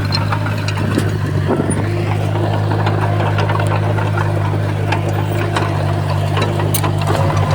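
Komatsu D51PX bulldozer's diesel engine running steadily under work, with scattered short clicks and clanks over it.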